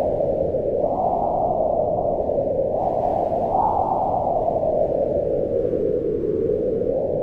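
Steady wind noise, a deep low rush that swells and eases over a few seconds.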